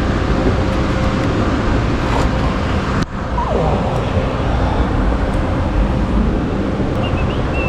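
Suzuki Hayabusa's inline-four engine running steadily while riding, mixed with wind and road noise. The sound briefly dips about three seconds in.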